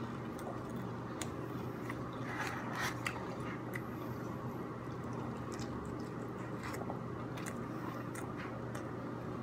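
A person biting into and chewing a soft corn-tortilla taco, with faint wet mouth clicks and small crackles, over a steady low hum.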